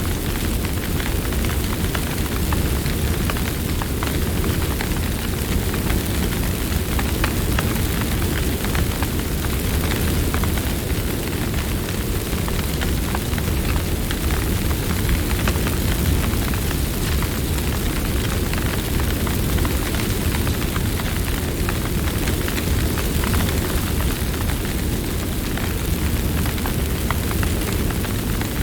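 Campfire burning and crackling: a steady low rumble of flames with frequent small sharp pops.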